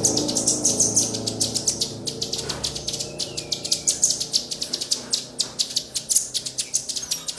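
Small songbird giving a long run of rapid, high, sharp chip calls, several a second, over a low hum that fades out in the first few seconds.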